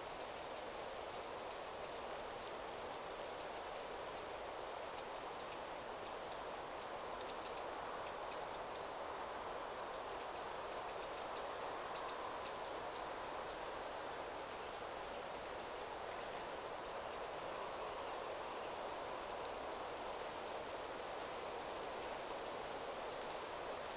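Forest ambience: a steady rustle of wind through the trees, with rapid, high chirps repeating throughout.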